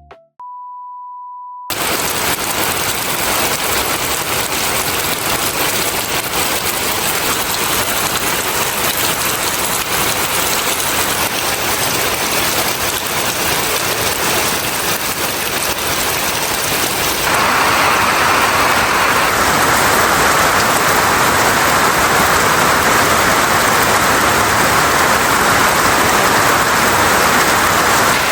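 A short steady beep, then heavy rain falling in a dense, even hiss; the rain grows louder about seventeen seconds in.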